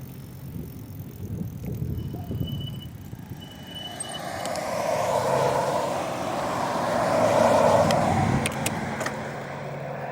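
A car passing by: road noise that swells from about four seconds in, is loudest near eight seconds, then fades.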